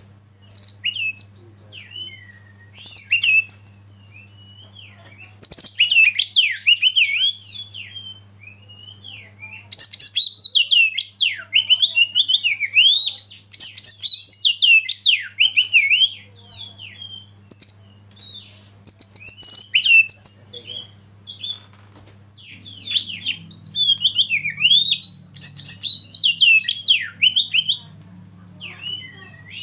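Oriental magpie-robin (kacer) singing in repeated bursts of rapid, varied whistles and chattering notes, separated by short pauses, with the longest run of song from about ten to sixteen seconds in.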